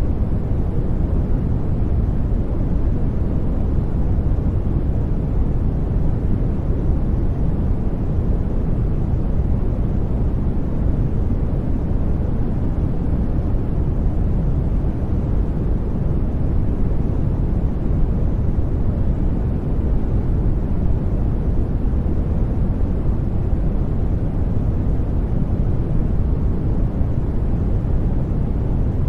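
Steady, unchanging electronically generated noise, heavy in the low end and fading toward the highs, so it sounds like a deep even rush rather than a bright hiss.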